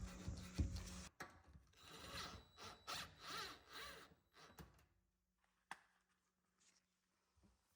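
A steady hum cuts off about a second in, followed by a few seconds of irregular scraping and rubbing, one sharp click, then near silence.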